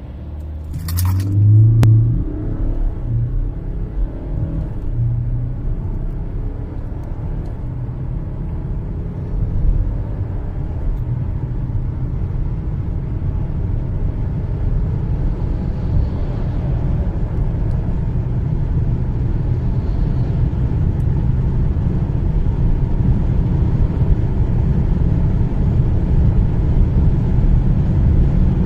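BMW 525d F11's 2.0-litre four-cylinder diesel pulling at full throttle through its automatic gearbox, with gear changes in the first few seconds. Engine and road noise build steadily as the car gathers speed.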